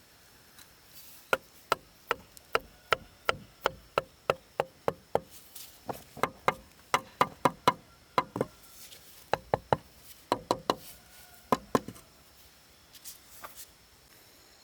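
Hammer striking, likely driving nails into wooden formwork: runs of sharp knocks at about three a second, broken by short pauses, with a couple of faint taps near the end.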